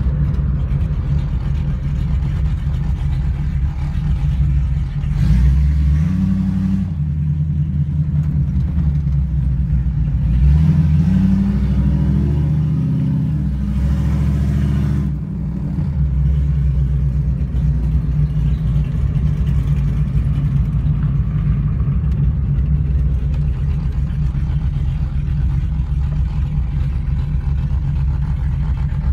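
1998 Jeep Grand Cherokee's 5.2 Magnum V8, fitted with aftermarket heads and cam, driving and heard from inside the cabin: a steady low drone at cruise. The revs climb about five seconds in and again from about ten to fifteen seconds, dropping back each time.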